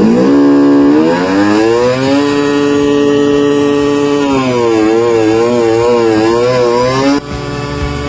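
Small motorcycle engine revving hard at high RPM. The pitch climbs over the first two seconds, holds high, then wavers up and down several times before cutting off suddenly about seven seconds in.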